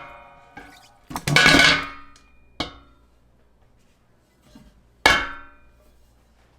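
Kitchenware clattering: metal clanks that ring on briefly, as of a utensil knocking against a pot or dish while food scraps are scraped in. There are four separate clanks; the one about a second in is the loudest and longest.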